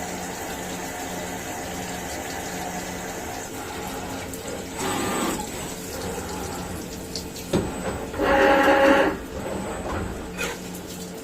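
CNC milling machine running with a steady hum and a rushing, water-like wash of flowing coolant. Two louder bursts stand out: a short one about five seconds in and a longer, louder one with a pitched ring from about eight to nine seconds.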